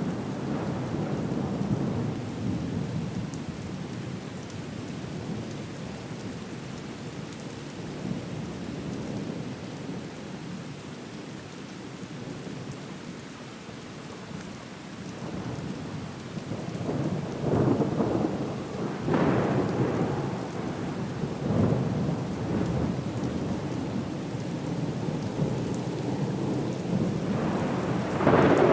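Storm soundscape: steady rain with rolling thunder, quieter through the middle, then a run of loud rumbling swells about two-thirds of the way through and another near the end.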